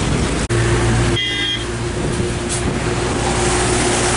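Steady vehicle noise, with a short high tone about a second in.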